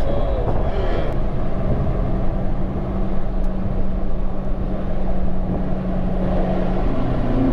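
Car engine running at a steady speed with road and wind noise, a steady drone that steps up a little in pitch near the end.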